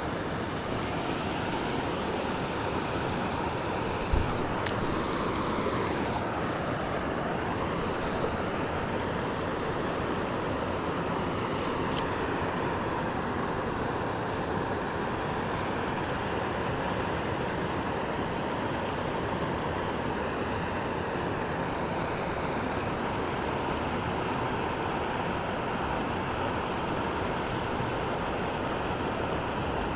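Steady rushing of river water flowing over rocks, with one short knock about four seconds in.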